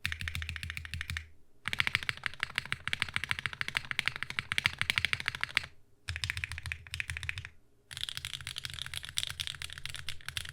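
Typing on a SingaKBD Unikorn mechanical keyboard with pre-lubed HMX Snow Crash linear switches, an aluminium plate, an O-ring mount and GMK ABS keycaps. Fast runs of keystrokes come in four bursts with short pauses between them; the second burst is the longest.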